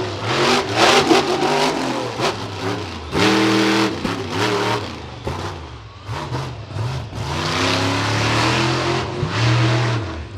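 Monster truck engine revving hard in repeated surges, the pitch climbing and falling, with a quieter lull in the middle.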